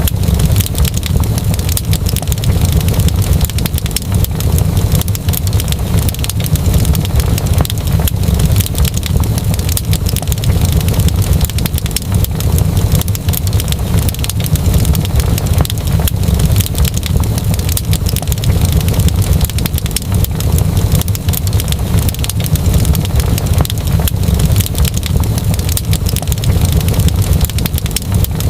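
Wood fire in a fireplace crackling continuously, dense small pops and snaps over a steady low rumble.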